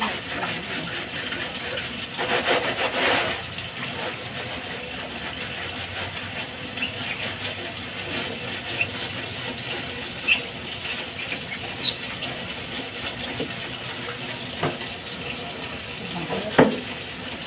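Water running from a sink tap while fridge parts are washed, louder for a second or so about two seconds in, with a few sharp knocks.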